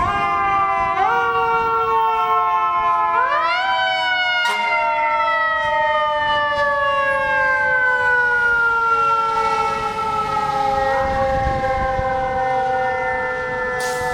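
Fire engine siren sounding while responding, rising quickly in pitch three times and slowly winding down in between.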